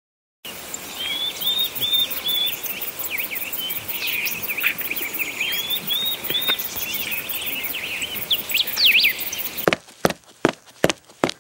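Birdsong ambience: several birds chirping and whistling in short repeated phrases over a steady outdoor hiss. About a second and a half before the end this cuts off and gives way to a run of about six sharp knocks.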